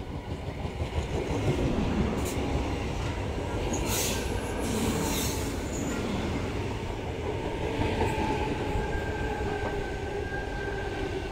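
Sydney Trains Tangara electric multiple unit running through the station without stopping: a steady rumble of wheels on the rails with faint motor tones. Brief high hissing noises come about four and five seconds in.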